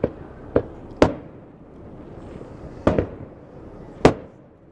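Aerial firework shells bursting: about five booms at uneven intervals, the loudest about a second in and near the end, each trailing off in a rumbling echo.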